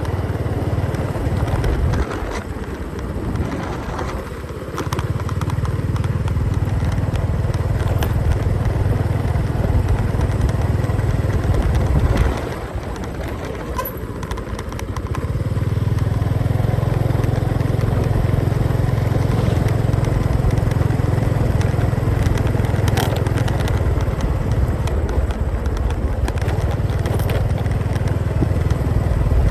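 Motorcycle engine running while riding. The engine sound drops back twice, about two seconds in and again near the middle, then comes back up and holds steady.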